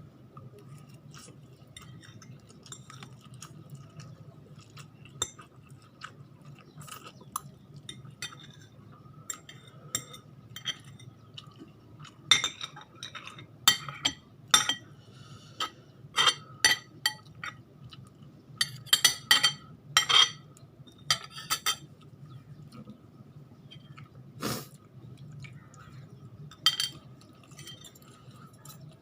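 Eating utensils clinking and tapping against a dish: scattered sharp clicks that come thick and fast in the middle, over a low steady hum.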